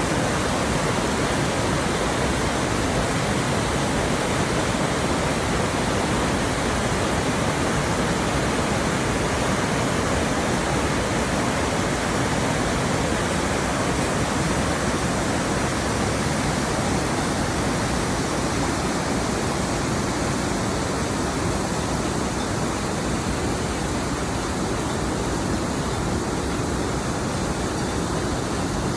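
Waterfall crashing and rushing, a steady, even roar of falling water that does not change.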